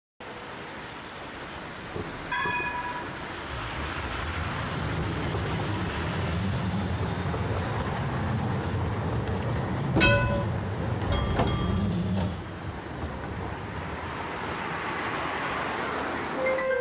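A tram running on its rails, with a steady rumble. A short pitched tone sounds about two seconds in, and sharp metallic clanks come around ten and eleven seconds.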